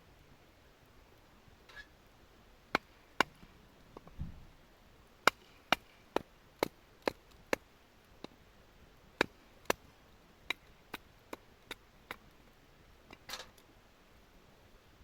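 Firewood being split into kindling: a string of sharp knocks, some in quick runs about half a second apart, with one duller thud about four seconds in.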